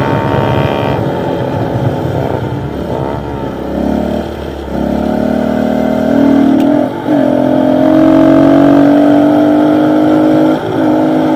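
Dirt bike engines riding together, one bike louder than the other. An engine climbs in pitch under throttle and shifts up with a brief dip about seven seconds in and again near the end.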